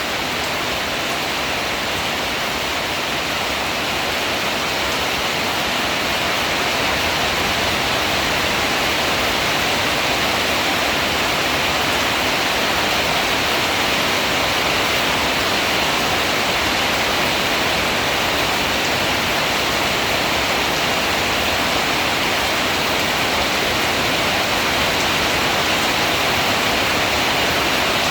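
Heavy rain falling steadily in a dense, even hiss with no separate drops or thunder, growing slightly louder over the first several seconds.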